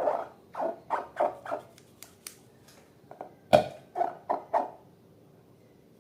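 Slime being squeezed and worked by hand: a run of short squelches, about three a second, with a sharp click about three and a half seconds in, stopping about a second before the end.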